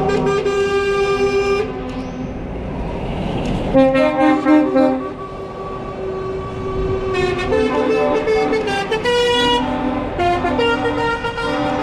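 Truck air horns blaring in a series of long blasts at several different pitches, the loudest about four seconds in.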